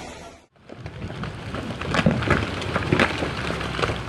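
Boulders tumbling down a mountainside: irregular cracks and thuds of rock striking rock over a rumbling noise, with the loudest knocks about two and three seconds in. The sound drops out briefly about half a second in, before the rockfall starts.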